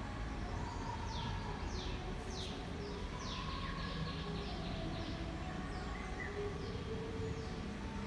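A bird calls a quick run of short, high, downward-sliding notes, over a steady low outdoor background rumble.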